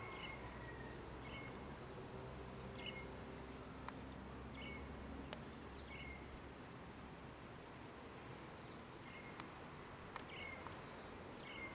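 Small birds calling: quick high trills and sweeping chirps, with a short chirp repeating about once a second, over a steady low rumble of outdoor background noise.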